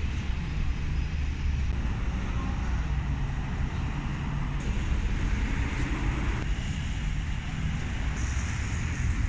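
Steady low rumble of vehicle engines and traffic, with a faint hum of idling engines in it.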